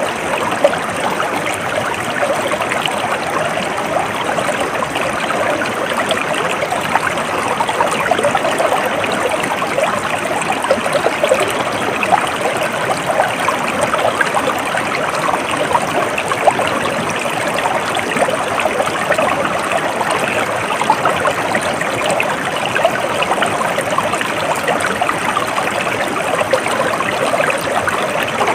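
Water flowing steadily over stones in a stream, a continuous babbling and splashing with no breaks.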